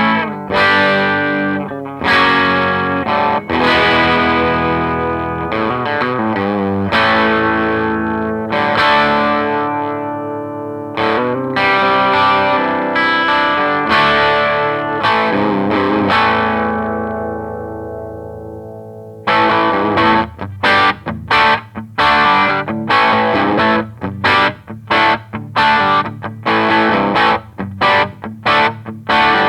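Distorted electric guitar, a Gibson Les Paul Studio played through a Marshall JTM60 valve amp. It plays ringing chords that are left to sustain, the last one dying away slowly until about two-thirds in, then switches to a quick run of short, choppy chords.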